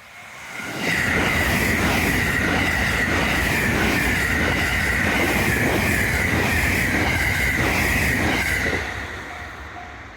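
A train passing close by at speed: wheels clattering over the rail joints with a steady high-pitched squeal. It builds up about a second in and fades near the end.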